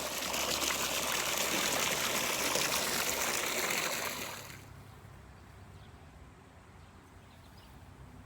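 Water running steadily with a rushing, trickling sound that cuts off abruptly about four and a half seconds in.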